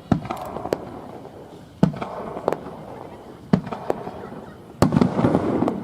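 Aerial fireworks shells bursting, about six sharp bangs roughly a second apart, each trailing a rolling echo. Near the end a louder burst brings a dense crackle.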